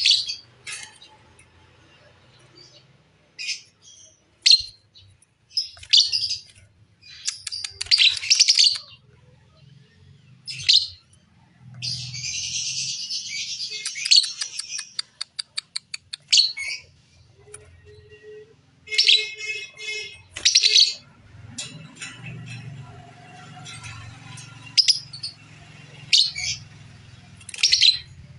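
A songbird singing: a string of short, loud chirps and whistles with pauses between them. A dense chattering phrase comes about halfway through, followed by a fast run of even ticking notes. A rapid trill follows a few seconds later.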